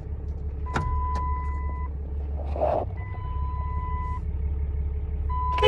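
Diesel pickup truck idling with a steady low rumble while an electronic dashboard warning chime sounds three times, each tone about a second long with about a second between them. A sharp click comes near the end.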